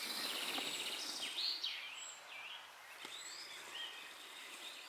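Wild songbirds chirping: a quick trill and several short swooping high calls, over faint outdoor rustle.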